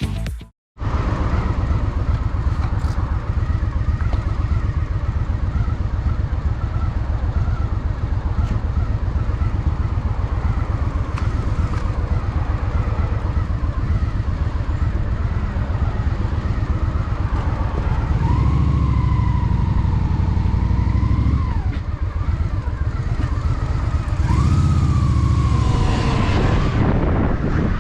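Honda Shadow VT750's V-twin engine running steadily under way, opening up twice, about two-thirds through and again near the end, with the pitch rising and falling each time.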